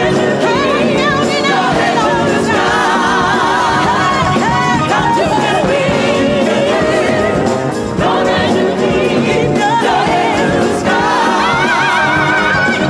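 Gospel choir singing with a band, voices held in wavering, ornamented lines over steady accompaniment.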